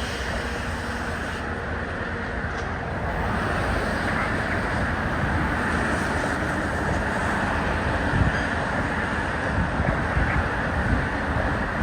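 Freight train rolling slowly along the yard track, a steady rumble of wheels and cars that grows a little louder about three seconds in.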